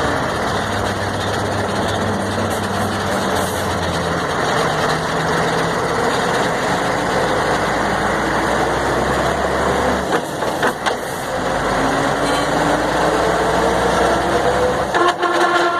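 Mercedes-Benz 1634 truck driving, its diesel engine and drivetrain running with the noise that shows only off the accelerator; the mechanic traces it to the rear differential. A tone slowly rises in pitch over the last few seconds.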